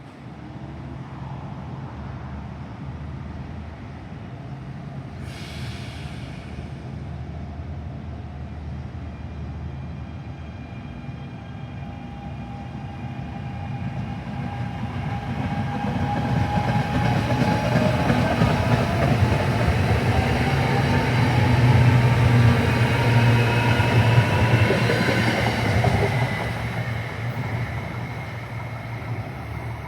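Commuter train passing through the station, building to a peak then fading. Over a steady low hum come gliding whining tones that rise and fall as it passes.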